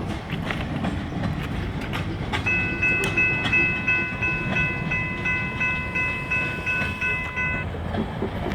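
Freight train rolling past with a low rumble and the clack of wheels over rail joints. For about five seconds in the middle, a bell dings rapidly, about three or four strikes a second, typical of a grade-crossing warning bell.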